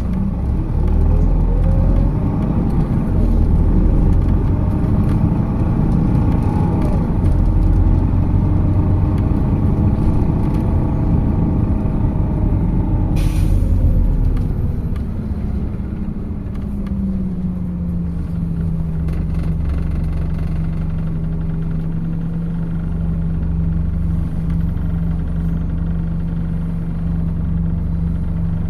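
MAZ 206 city bus heard from inside: the diesel engine and transmission pulling, their pitch rising and sweeping for about the first fourteen seconds. A short hiss comes near the end of that stretch, then the sound drops and settles into a steady hum.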